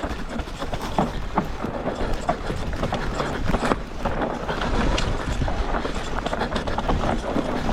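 Electric mountain bike rolling over a dry, loose dirt trail: steady tyre and ride noise with frequent small clicks and knocks from the bike rattling over the ground, and a low rumble of wind on the microphone.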